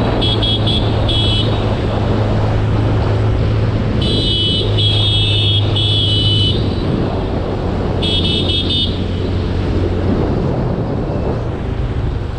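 Motorcycle on the move, a steady low engine hum under a constant rushing road and wind noise, with a vehicle horn honking in groups: a few quick beeps at the start, three longer honks about four to six seconds in, and a few more beeps around eight seconds in.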